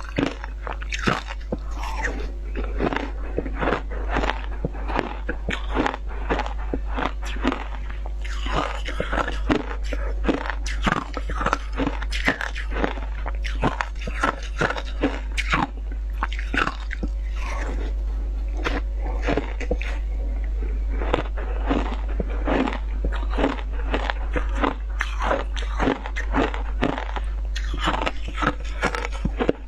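Close-up crunching and chewing of frozen shaved ice: a fast, irregular run of sharp bites and crunches with no pause, over a steady low hum.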